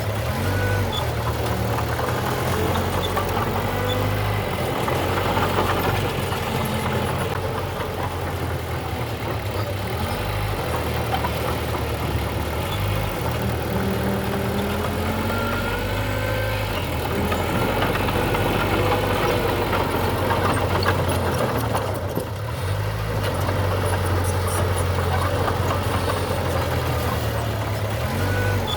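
Diesel engine of heavy earthmoving machinery running steadily, its pitch and level shifting several times as the machine works.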